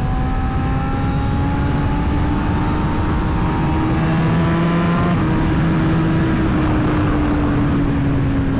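BMW S1000RR inline-four sport bike engine running under steady throttle through a turn. Its pitch climbs slowly for about five seconds, then eases down a little, over a steady wind rush.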